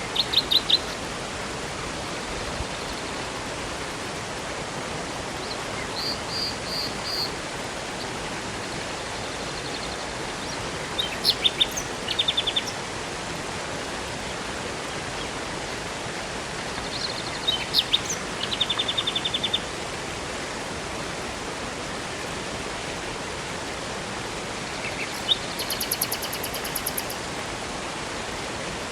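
Steady rushing of a river and waterfall, with songbirds singing short, high, rapidly trilled phrases about five times over it.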